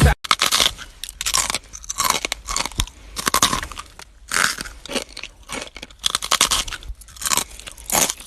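Crunchy chewing: a string of irregular crisp crunches and bites, a few each second.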